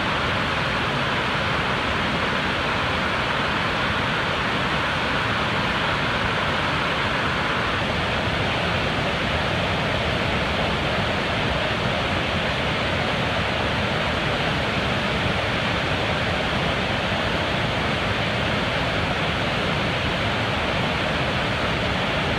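Gullfoss waterfall: the steady, even rush of a large volume of falling water.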